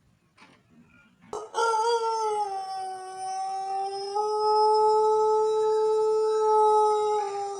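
Pelung rooster crowing one very long, drawn-out crow that starts about a second and a half in, sags slightly in pitch, steps up about halfway and holds steady, then drops to a lower note near the end.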